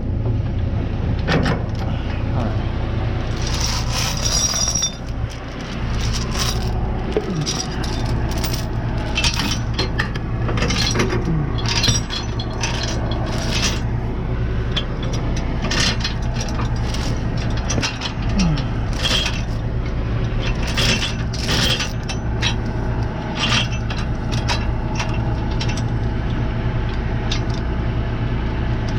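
Metal tow chains clinking and rattling again and again as they are handled and hooked up, over a truck's diesel engine idling steadily.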